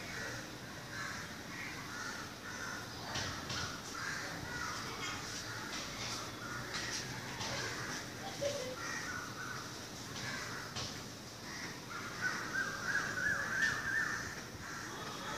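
Birds calling repeatedly, with a louder, busier run of calls near the end.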